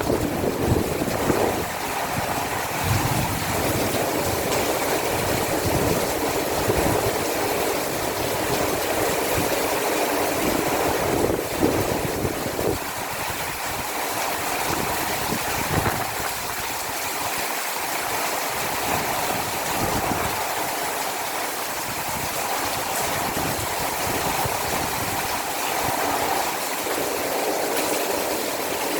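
Heavy rain pouring steadily in a storm, a broad even hiss, with some low gusty rumbling in the first few seconds.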